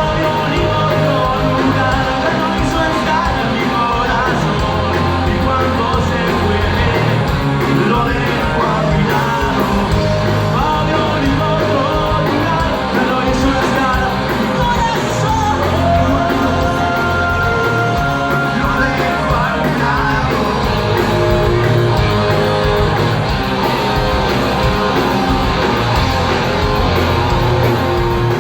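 Rock band playing live, with a sung vocal over the full band.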